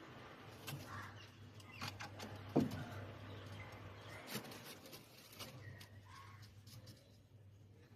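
Faint sounds from doves: one short falling call about two and a half seconds in, with scattered light clicks over a steady low hum.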